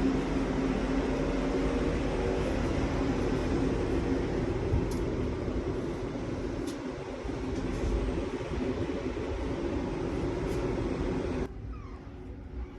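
Steady mechanical hum and rumble with a few faint clicks, dropping off abruptly near the end.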